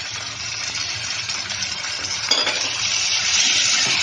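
Chicken and spice masala sizzling in a hot non-stick pan as yogurt is added. A sharp knock comes about two seconds in, and the sizzling grows louder after it as the cold yogurt meets the hot oil.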